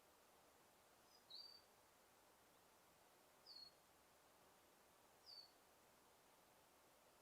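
A bird giving a short, high chirp three times, about two seconds apart, over a faint steady hiss of forest ambience.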